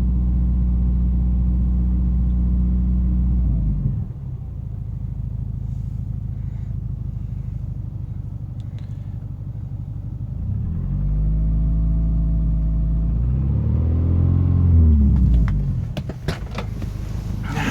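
2000 Subaru Forester's 2.5-litre flat-four engine, still cold, held at raised revs for a few seconds and then dropping back to a steady idle. About ten seconds in it is revved up twice more, the second rise peaking and falling back, before settling to idle again; a few sharp clicks near the end.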